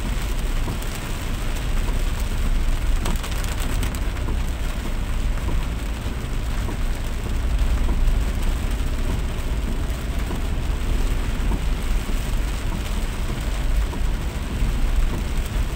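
Heavy rain falling steadily, over a constant low rumble.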